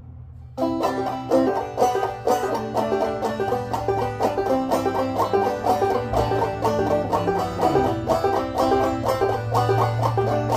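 Banjo picking a fast run of plucked notes over a steady low bass note, starting about half a second in: the instrumental intro to a bluegrass-style song.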